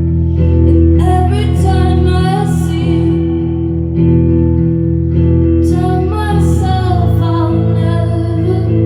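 A woman singing a slow song live, accompanying herself on guitar: two sung phrases over sustained, ringing chords.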